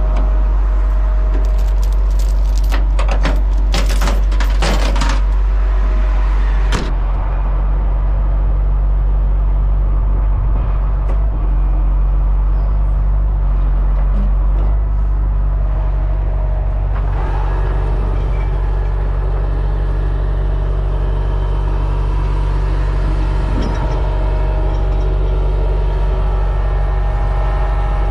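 Heavy truck engine running steadily at a constant speed. Metallic clinking and rattling through the first several seconds.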